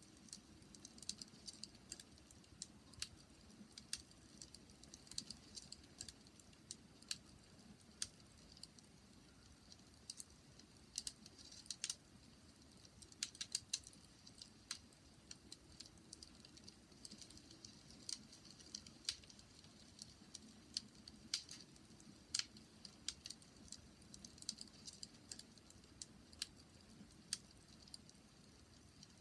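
Bonfire crackling faintly: wood popping and snapping in irregular sharp clicks, several a second, over a soft low rumble.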